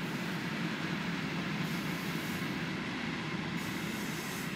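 Freight train of covered hopper wagons rolling past: a steady rumble of steel wheels on the rails.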